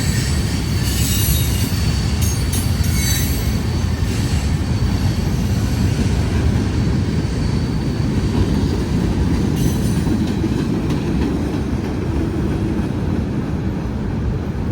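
Freight train cars rolling past at close range: a steady heavy rumble of wheels on rail, with high wheel squeal in the first few seconds and again briefly about ten seconds in.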